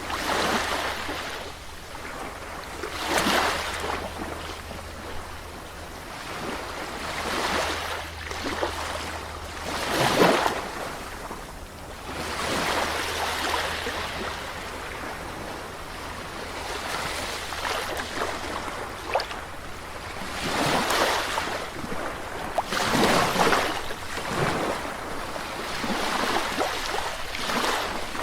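Sea waves breaking and washing on a shore, a swell of surf every few seconds that rises and fades, over a steady low rumble.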